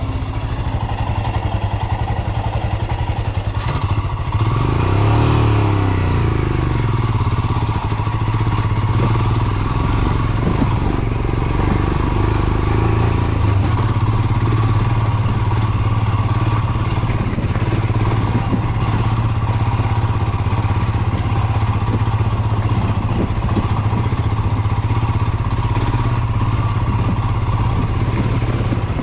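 Royal Enfield Himalayan's 411 cc single-cylinder engine running steadily under way, its pitch briefly rising and falling about four to six seconds in.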